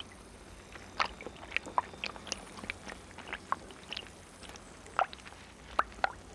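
Soft, irregular small clicks and wet crackles, about a dozen scattered over a faint hiss: close-up sound effects for a water beetle larva straining to pull its claws free underwater.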